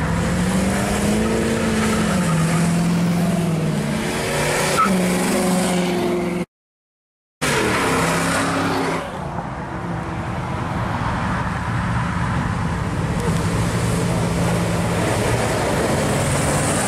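Hot-rod roadster's engine accelerating away, its pitch rising and then dropping as it shifts. The sound cuts out for about a second, then a late-model Pontiac Trans Am and a Corvette drive past one after another, engines running with tyre and road noise.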